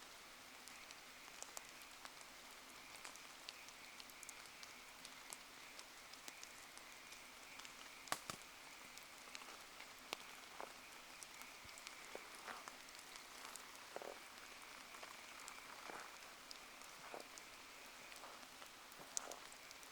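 Faint steady rain falling around a campfire, with scattered small ticks and pops; the sharpest crack comes about eight seconds in.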